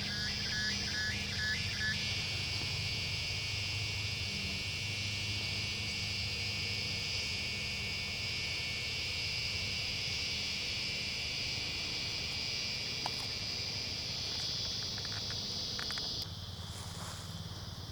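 Chorus of cicadas, a steady high-pitched shrilling that weakens about sixteen seconds in. In the first two seconds a quick run of about five short, lower chirps sounds over it.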